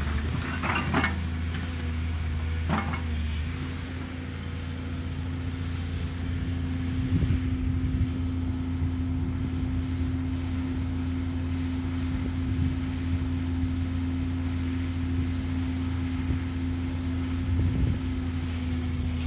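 Caterpillar excavator's diesel engine running steadily, with two short clanks in the first few seconds and a change in the engine note a little after.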